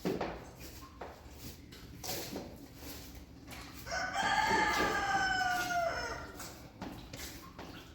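A single drawn-out animal call about four seconds in, lasting about two seconds and sliding gently down in pitch near its end. Light scattered knocks sound around it.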